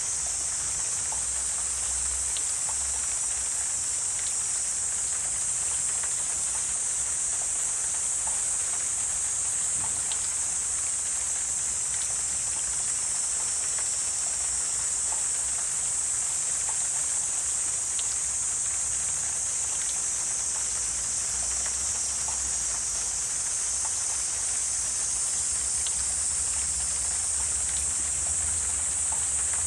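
Wetland ambience dominated by a steady, high-pitched insect chorus that does not let up, with scattered faint ticks and a low rumble underneath.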